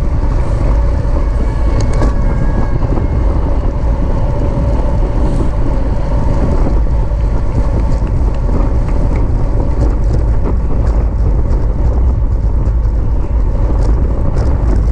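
Wind buffeting the microphone of a camera riding along on a bicycle at racing speed: a loud, steady, deep rumble.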